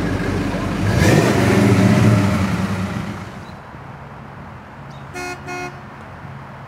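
Pontiac 455 V8 of a 1968 GTO pulling away, louder and rising for a couple of seconds, then settling into a quieter steady cruise. Two short car-horn toots about five seconds in.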